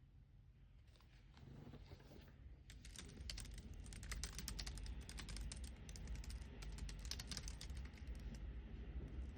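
Typing on a computer keyboard: quiet at first, then a fast, continuous run of keystroke clicks from about three seconds in.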